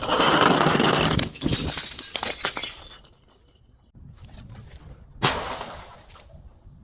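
Glass breaking and crunching under crushing: a loud, dense crackle of many small cracks for nearly three seconds, then quieter crackling and one sharp crack about five seconds in.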